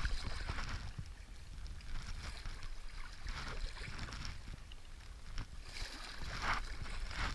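Stand-up paddle strokes swishing through river water, one every two to three seconds, over a steady low wind rumble on the microphone.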